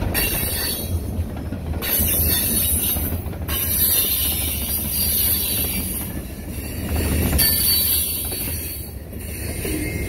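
Freight train cars, covered hoppers and then tank cars, rolling past with a steady low rumble and a high-pitched wheel squeal that comes and goes in waves. The sound falls off near the end as the last car goes by.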